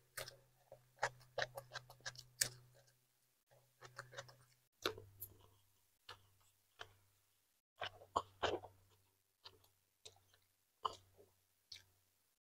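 Close-up mouth sounds of chewing a raw cucumber stick: irregular crisp crunches, wet clicks and smacks in clusters with short pauses between.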